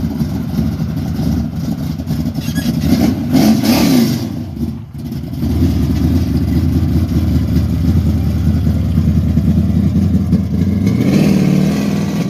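A car engine running loudly, revved up and back down about three to four seconds in, then running steadily, with its pitch climbing again near the end.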